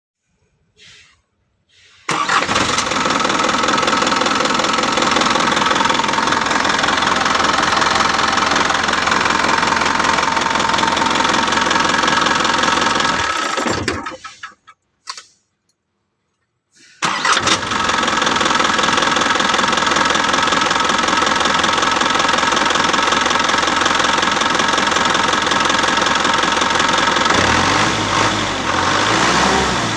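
Dump truck's diesel engine running loud and steady. It dies away a little before halfway, is silent for a few seconds, then runs again.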